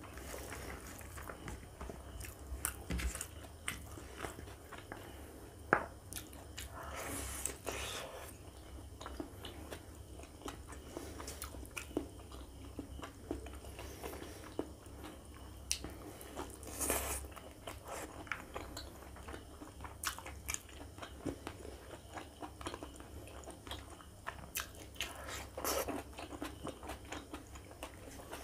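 Close-miked eating by hand: chewing and biting on pork fat, ribs and curry-soaked rice, with wet sounds of fingers mixing rice and curry on the plate. Scattered sharp clicks, the loudest about six seconds in, and a few longer wet smears.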